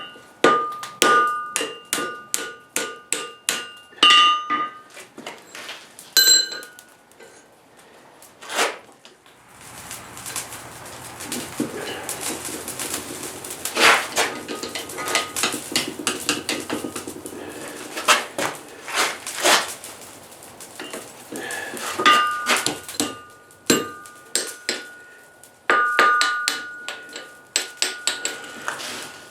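Blacksmith's hammer striking steel on an anvil in runs of quick blows, the anvil ringing with a clear high tone after each strike. In the middle stretch a steady rushing noise rises under irregular knocks and clanks, then the ringing hammer blows resume near the end.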